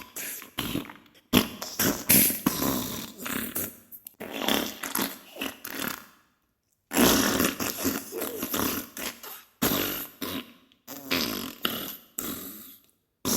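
Diarrhea sound effect: a string of irregular wet farting and spluttering bursts of varying length, broken by one short dead-silent gap about six seconds in.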